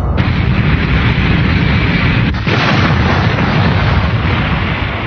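Animated space-battle sound effects: a dense, continuing barrage of explosions and cannon blasts that starts abruptly, with a brief break about two and a half seconds in.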